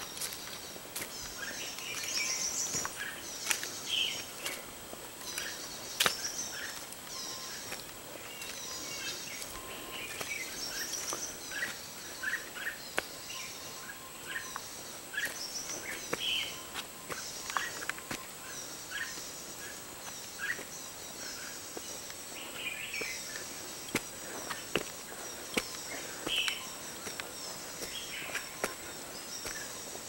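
Forest birds chirping, with many short high calls repeating throughout, over a steady high-pitched whine. Scattered sharp crackles of footsteps on dry leaves and twigs run through it.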